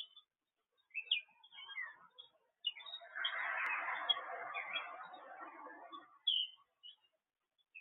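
Songbirds chirping in short, high notes. About three seconds in, a denser rushing noise lower in pitch swells up over them and lasts about three seconds before the chirps are heard alone again.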